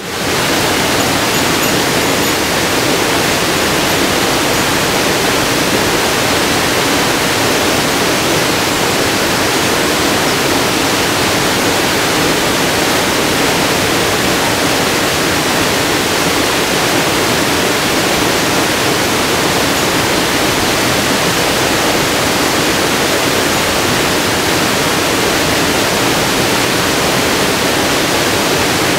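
Mountain stream water rushing, a steady even hiss with no break.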